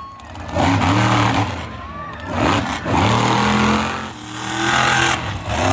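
Monster truck engine revving hard in three bursts, each rising and falling in pitch.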